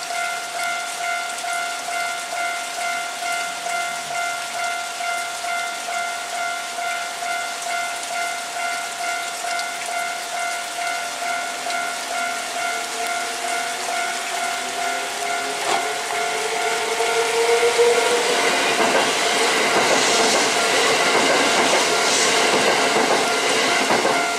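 Railway level-crossing alarm ringing in even, repeated dings while a Kintetsu limited express train approaches with a rising whine. From about 16 s the train passes loudly, its wheels clattering over the rails.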